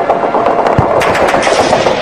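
War battle sound effect: rapid gunfire, many shots close together over a dense noisy din.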